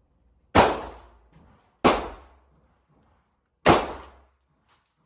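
Semi-automatic shotgun firing three shots in quick succession, one to two seconds apart, each a sharp blast with a short echoing tail.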